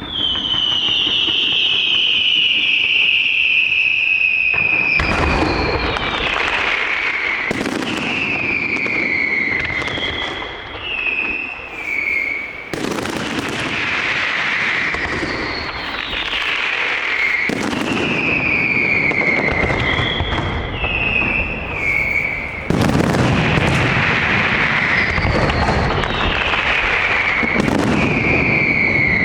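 Large fireworks display with whistling fireworks: repeated falling whistles, one after another, over continuous crackling and a series of heavy bangs every few seconds.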